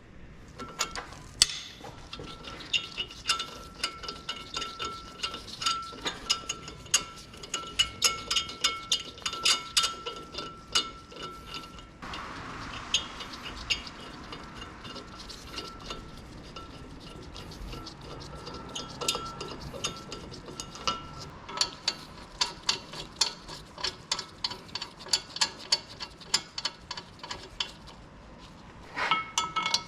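Socket ratchet wrench clicking in quick runs as bolts are turned, with light metallic clinks of tools. A faint steady high tone runs underneath.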